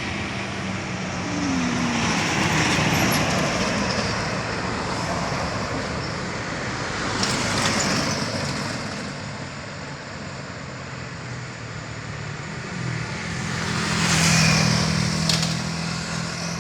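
Road traffic on an uphill bend: vehicles pass one after another, swelling about three seconds in, near eight seconds and again near the end, over the steady drone of engines pulling uphill, including loaded trucks.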